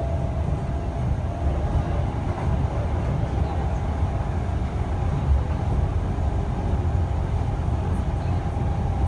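Interior running noise of a Kintetsu local commuter train in motion: a steady low rumble of wheels and running gear on the rails, heard from inside the carriage.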